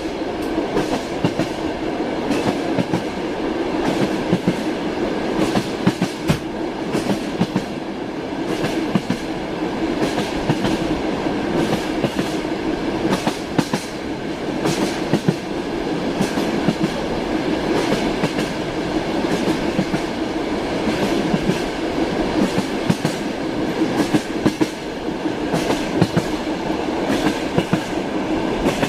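Passenger train carriage in motion, heard inside a compartment: a steady rumble with the repeated clack of the wheels over the rail joints.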